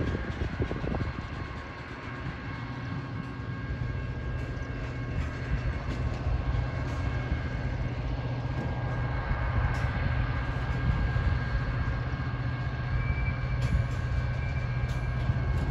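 Train rolling past with a steady low rumble and a steady hum, with thin high tones over it; a short loud burst comes right at the end.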